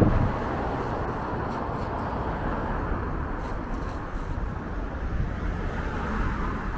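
Steady street noise outdoors: strong wind rumbling on the microphone mixed with road traffic.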